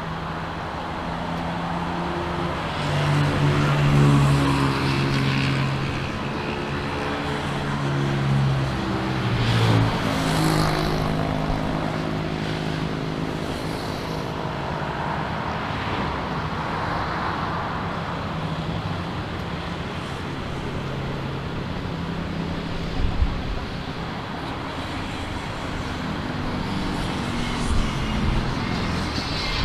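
Road traffic: motor vehicles passing, their engines rising and falling in pitch, loudest about 4 and 10 seconds in.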